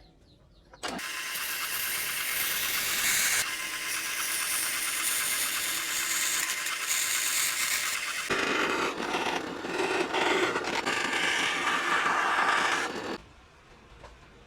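Small two-stroke mini motorcycle engine running. It comes in abruptly about a second in, shifts in tone around three and eight seconds in, and cuts off about a second before the end.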